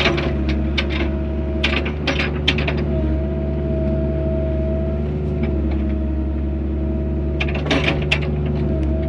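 Mini excavator's engine running steadily with a steady whine over it, and scattered metallic clanks and clicks from the machine working, a cluster in the first few seconds and another near the end.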